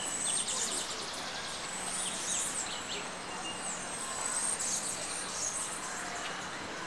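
Birdsong: a high, thin whistled note repeating every couple of seconds, a fast trill early on, and scattered chirps from other birds, over a steady outdoor hiss.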